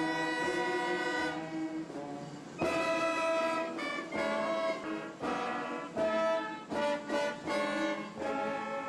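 Brass band playing a slow passage of loud held chords, the notes changing every second or so.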